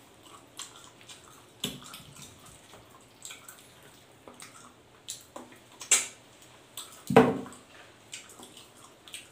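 Close-up wet chewing and lip-smacking as a man eats roast pork leg by hand, with irregular short smacks and clicks, the loudest a little after halfway through.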